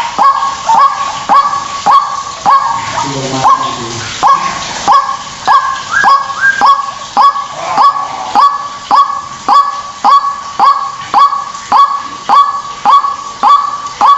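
White-breasted waterhen calling: a loud, insistent series of short rising honking notes, a little under two a second. A brief lower call overlaps about three seconds in.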